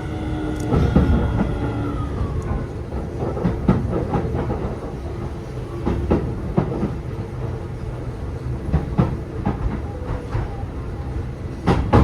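Keio 7000 series electric train heard from onboard. The Hitachi IGBT-VVVF inverter whine slides down in pitch and dies away in the first couple of seconds. After that the train rolls on with a steady rumble and wheels clicking over rail joints, with a louder cluster of clicks near the end.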